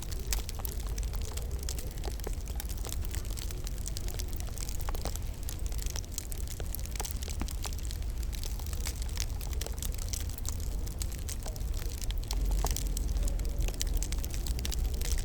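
Wood fire crackling in a fireplace: many small, sharp pops and snaps at irregular intervals over a steady low rumble and hiss.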